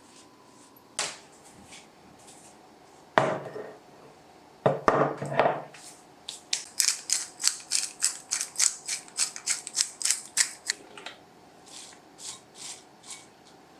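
A few knocks and rustles, then scissors snipping in a quick run of short crisp cuts, about four to five a second, for roughly five seconds before tailing off.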